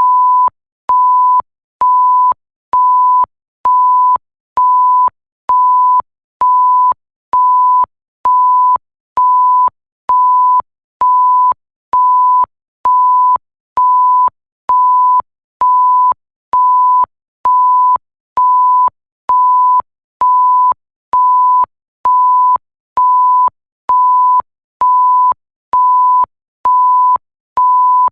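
Electronic censor-style bleep: a steady, single pure tone sounding in short beeps of about half a second, repeating evenly about once a second, with a faint click as each beep starts and stops.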